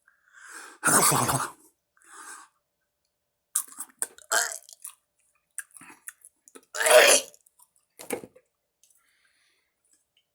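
A man chewing a dried tarantula abdomen, with scattered short mouth clicks and crunches. Two louder breathy throat sounds come about a second in and about seven seconds in.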